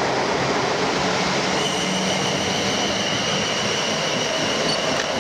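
South Western Railway Class 450 Desiro electric multiple unit pulling out of the station with a steady rumble and rush of wheels on rail. A steady high whine joins about a second and a half in as it gathers speed.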